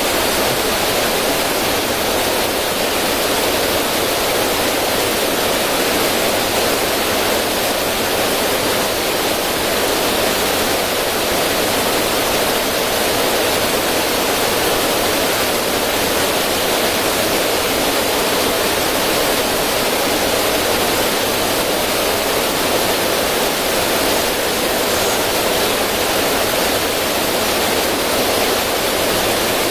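River water running over rocks into a small cascade, a steady, even rush with no changes.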